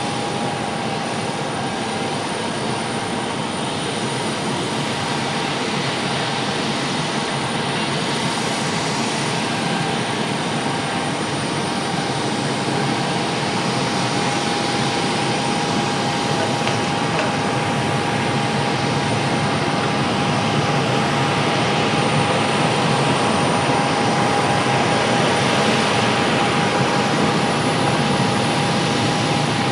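Jet airliner's engines running steadily: a broad rush with a constant whine, slowly growing louder.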